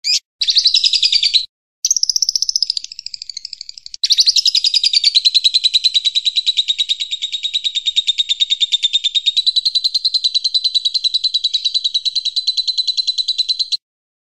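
A small songbird singing: a burst of quick notes and a falling run, then a long fast trill held at nearly one pitch for about ten seconds that stops just before the end.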